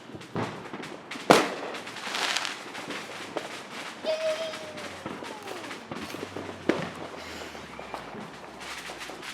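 Consumer fireworks going off: several sharp bangs, the loudest about a second in, followed by a spell of crackling. A short falling tone sounds near the middle, and another bang comes near the end.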